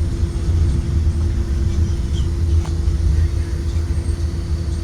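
Steady low rumble of a 2023 Blue Bird Vision school bus underway, its Ford 7.3L gasoline V8 running with road noise, heard inside the passenger cabin, with a steady hum over it.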